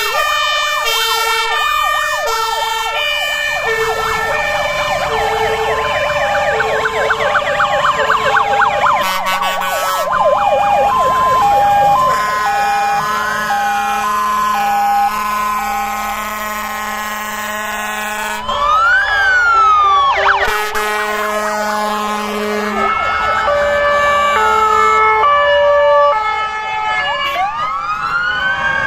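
Several fire truck sirens sounding at once. A two-tone siren steps between a high and a low note about twice a second, overlapped by a fast yelping siren partway through and by slow wailing sirens rising and falling in pitch near the end.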